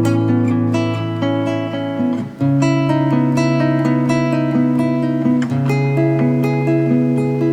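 Background music on acoustic guitar: plucked notes ringing over a held bass line. The bass changes to a new note about two and a half seconds in, and again about five and a half seconds in.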